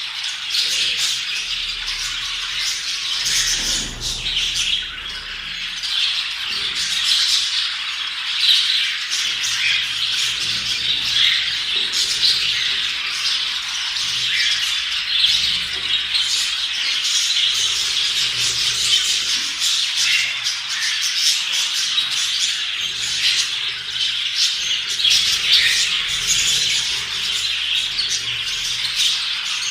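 Budgerigars chattering continuously: a dense, overlapping mix of many short high chirps and warbles from several birds.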